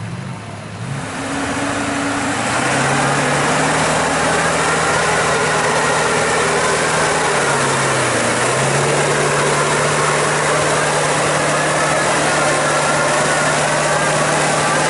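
Mud truck engine running hard, getting louder over the first couple of seconds and then held at high revs, with a brief dip in pitch about eight seconds in.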